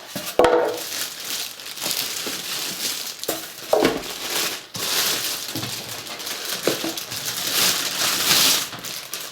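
Packaging crinkling and rustling as the water heater is pulled out of its box, with a few knocks along the way.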